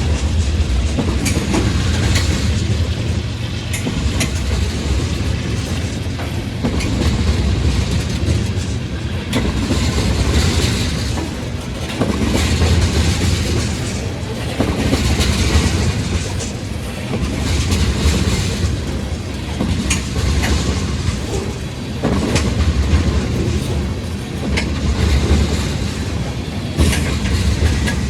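Freight train's cars rolling past with a steady low rumble that swells and eases every two to three seconds. The wheels click over the rail joints.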